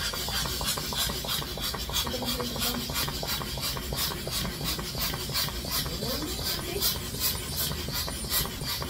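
Hand balloon pump worked in quick, even strokes, each stroke a short hiss of air, about two to three a second.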